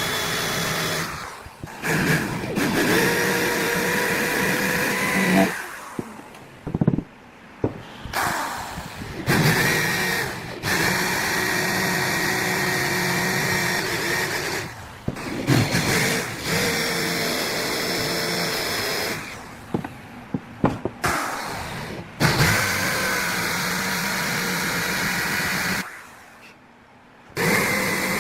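Electric power tool running in short runs of a few seconds each, switched off and on again many times with brief pauses in between.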